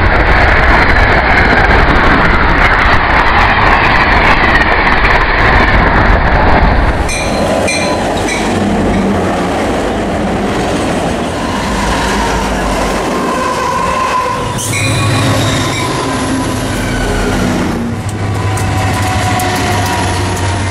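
Trains passing close by in a series of short clips cut together. Locomotives are running past with loud wheel-on-rail noise and engine drone, and the sound changes abruptly at each cut.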